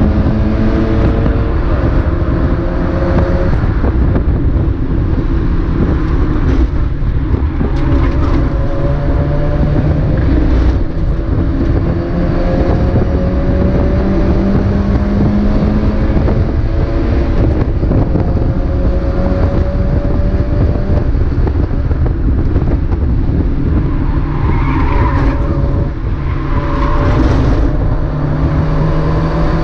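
Mazda MX-5 race car's four-cylinder engine running hard, its pitch climbing through each gear and dropping back at the shifts several times.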